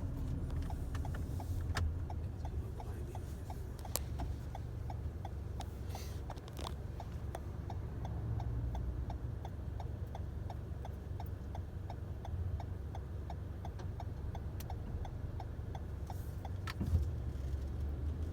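Low, steady engine rumble of a Mack LEU CNG refuse truck running, with a light, even ticking of about two to three clicks a second over it and a few sharper clicks.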